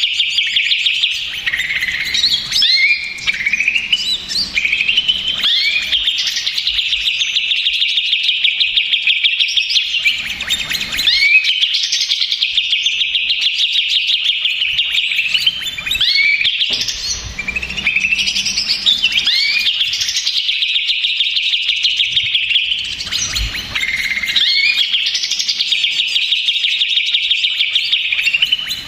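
Green leafbird (cucak ijo) singing a loud, nearly unbroken stream of rapid chattering trills and whistled slurs, with a few short breaks. It is a noisy lure song of the kind played to provoke other cucak ijo into singing.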